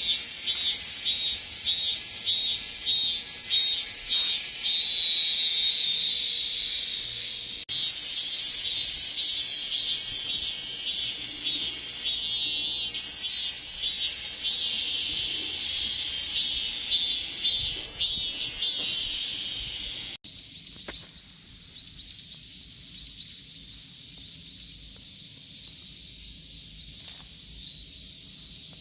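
Cicadas singing loudly in a high, rhythmic pulsing chorus of about two pulses a second, with a brief break about eight seconds in. About twenty seconds in the song cuts off abruptly, leaving a much quieter stretch of faint high chirps.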